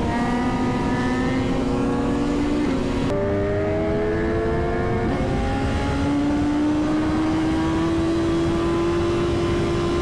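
Sport motorcycle engine running under way, heard from on the bike with steady wind rush; its pitch climbs slowly as the bike gains speed, with a sudden change in tone about three seconds in.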